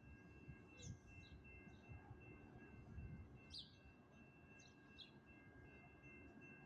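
Faint birds chirping: about six short, high calls spread through a few seconds, over a low rumble and a faint steady high whine.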